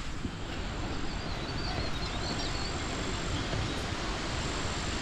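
Steady outdoor rushing noise with wind buffeting the microphone, and a few faint high chirps about a second in.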